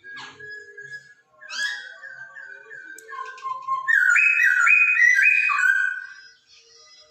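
Chinese hwamei (poksay Hongkong) singing: phrases of clear, repeated whistled notes, the loudest run of rising-and-falling whistles about four seconds in.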